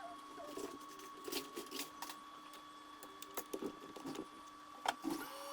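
Small, scattered clicks and taps of hand tools and parts being handled on a repair bench while a display connector is fitted to a laptop logic board, over a faint steady electrical hum.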